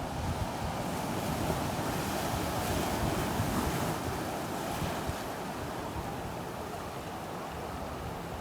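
Ocean surf washing on a beach: a wave's hissing wash swells about a second in and eases off after about five seconds. Wind buffets the microphone with low rumbling.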